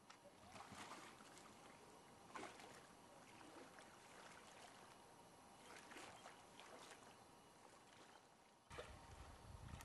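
Faint canoe paddling: soft splashes and drips of water with a few light strokes scattered through. A louder, steadier noise comes in near the end.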